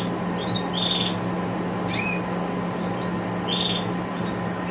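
Caged canaries giving short, high chirps, about half a dozen scattered calls, some sweeping downward in pitch, over a steady background hum.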